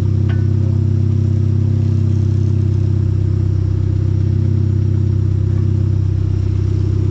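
Hyundai Genesis Coupe's four-cylinder engine idling steadily through its new exhaust, which has a small leak at a flange gasket.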